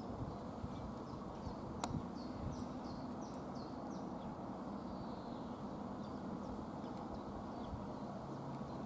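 A small bird chirping in quick series of short, high, falling notes over steady outdoor background noise, with one sharp click just under two seconds in.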